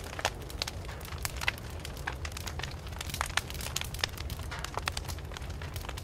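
Wood fire crackling, with irregular sharp pops and snaps of burning wood over a steady low rumble of the flames.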